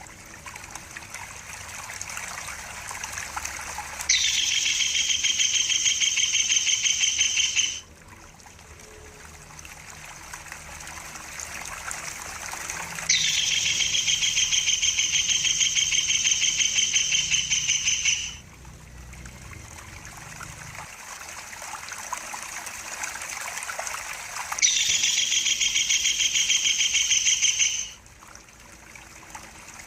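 Tengkek buto kingfisher calls: three long, fast chattering series of a few seconds each, with trickling, gurgling water running steadily between and under them.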